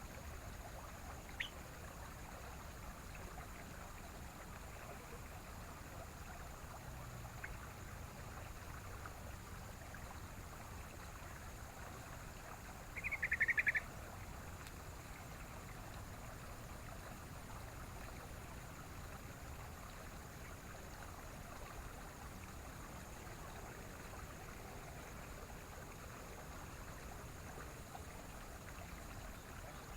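A yellow-vented bulbul (trucukan) gives one short burst of quick call notes about halfway through. Behind it runs a steady hiss like running water, with a faint click near the start.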